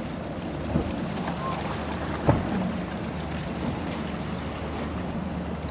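Boat engine running with a steady low drone over the rush of surf, and wind buffeting the microphone. There is a sharp thump about two seconds in and a smaller one near the start.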